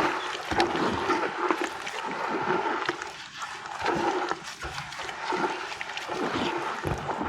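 Wet sand and cement crumbling and being squished in water, a continuous wet crackle with many small clicks.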